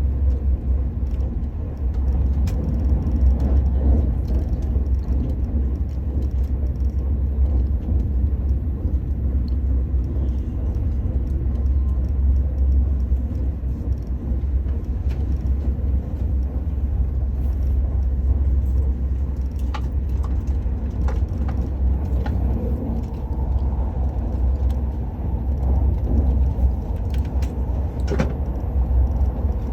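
Steady low rumble and rushing noise inside the passenger cabin of an Al Boraq high-speed train as it runs, with a few faint clicks in the last third.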